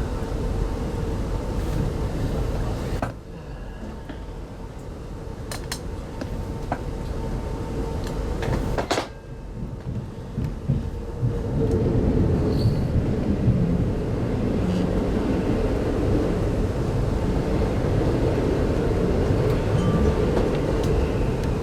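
Inside a 25T-type passenger coach of a train running on the line: steady wheel-and-rail rumble with a faint hum. The noise drops suddenly twice with a few sharp clicks, then comes back louder and rougher about halfway through.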